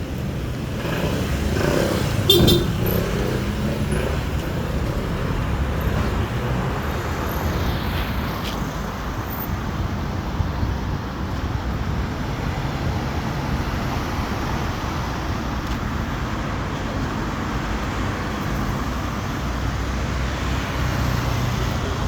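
Steady road traffic noise, with a short sharp sound about two seconds in.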